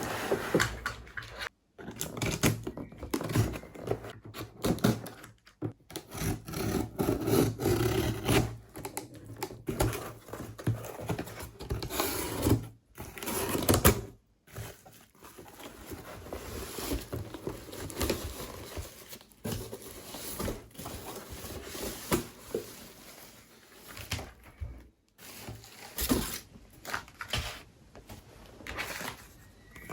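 Handling noises: irregular knocks, clicks and rustles, with brief pauses, as objects are picked up and put down on a surface.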